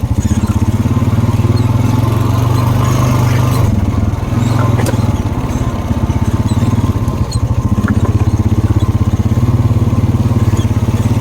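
ATV engine running steadily under a rider at a fairly even pitch, easing off briefly a couple of times.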